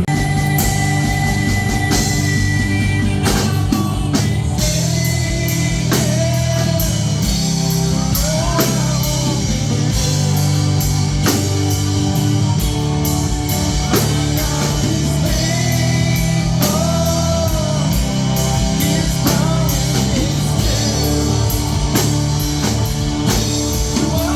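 Live band playing a praise and worship song: singing over drum kit and guitar with a steady beat.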